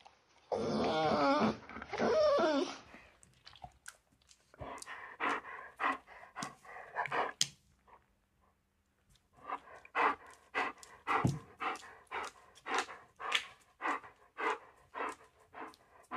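A dog gives a wavering, drawn-out vocal call for about two seconds, then pants rhythmically in short puffs, about two to three a second, with a pause midway.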